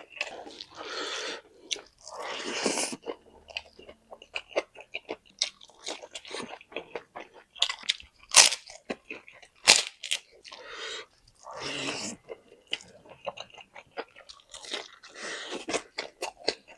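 Close-up crunching and chewing of crispy fried chicken: repeated crisp bites and crackles with wetter chewing between them, and two especially loud sharp crunches about halfway through.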